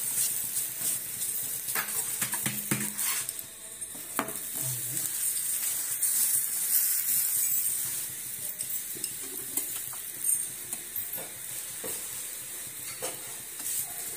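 Oil sizzling steadily under a paratha frying on a flat metal tawa, with a steel spatula scraping and tapping on the pan now and then as the paratha is pressed and turned.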